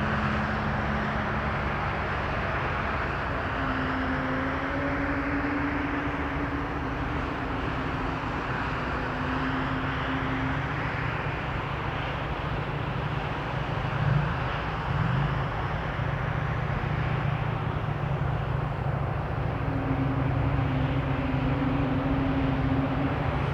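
Passenger jet engines on approach to land: a steady rush of engine noise with a low hum underneath, growing slightly louder near the end.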